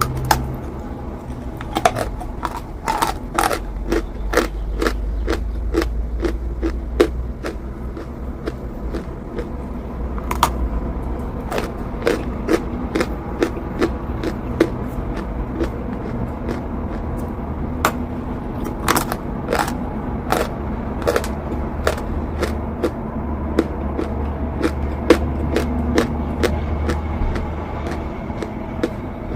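Repeated crisp snaps and crunches of chalk being bitten and chewed, irregular and close, over a steady low rumble.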